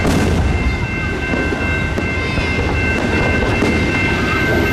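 Amtrak Superliner passenger train rumbling past over a grade crossing while fireworks boom overhead, with a sharp bang right at the start and a few fainter ones later. A steady high ringing from the crossing signal runs underneath.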